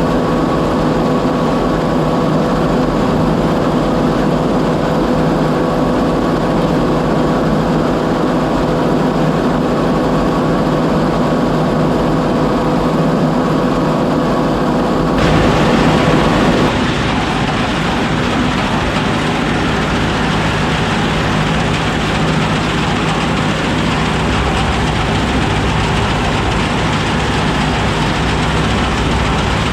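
Oliver 7300 combine running steadily while cutting wheat: a constant engine and machinery drone with steady whines. About halfway through, the sound changes abruptly: the whines stop and a louder, harsher hiss takes over.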